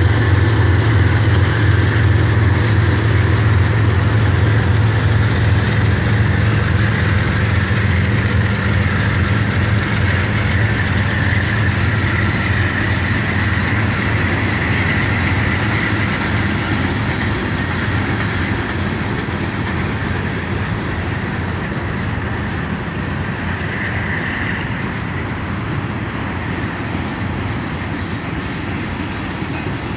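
Freight train cars, mostly covered hoppers, rolling past at speed: a steady rumble and clatter of steel wheels on the rails. A low drone fades over the first several seconds, and a faint high ring from the wheels comes and goes.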